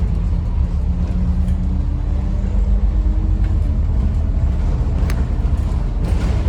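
Scania OmniCity bus's diesel engine running, heard from inside the passenger cabin, its tones shifting in pitch as it goes. A sharp click about five seconds in.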